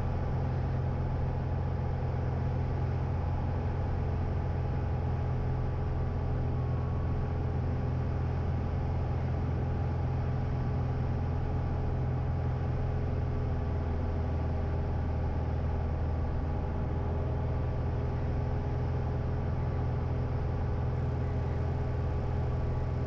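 Light airplane's piston engine and propeller droning steadily as heard in the cockpit on final approach.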